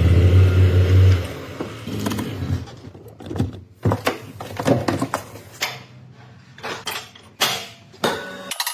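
A loud low mechanical hum for about the first second, then a string of irregular clicks and knocks of tools and metal parts being handled while working on the car's suspension.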